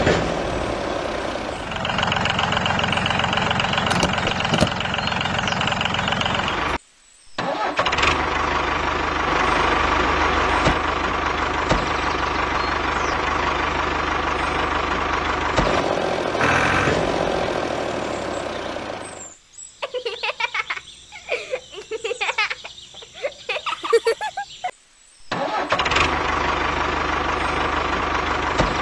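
Tractor engine sound running steadily, cutting out briefly about seven seconds in and resuming. About twenty seconds in it gives way for some five seconds to irregular knocks and rattles, then the engine runs again.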